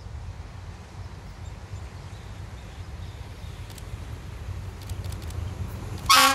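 Diesel locomotive of a passenger train approaching, a low rumble slowly growing louder, then one short, loud horn blast near the end.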